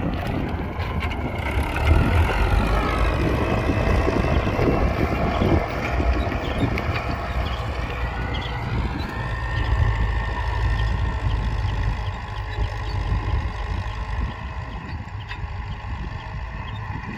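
Belarus MTZ800 tractor's diesel engine running, its pitch falling and rising as the engine speed changes during the first half, then settling to a steady run that grows somewhat quieter near the end.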